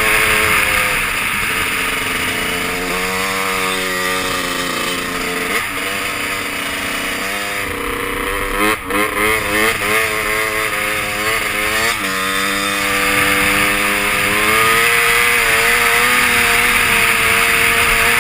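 Honda CR250 two-stroke dirt bike engine being ridden, its pitch climbing and dropping repeatedly as it is revved and shifted. About halfway through come a few seconds of quick on-off throttle blips, then a steady climb near the end.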